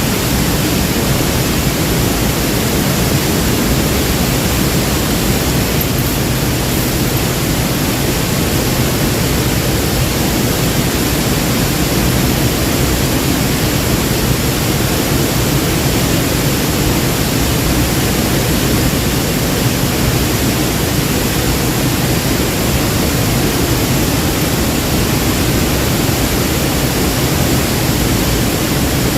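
Waterfall: water falling and rushing in a steady, loud, unbroken roar of noise.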